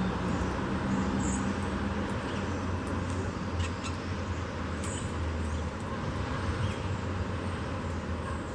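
Steady low rumble of distant road traffic, with a few faint short bird calls over it.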